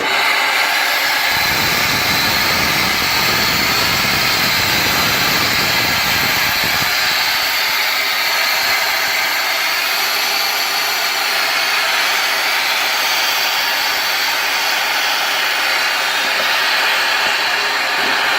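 Steam jetting out of a hot sauna stove after water has been poured into it: a loud, steady hiss that starts suddenly, with a low rumble under it for the first several seconds.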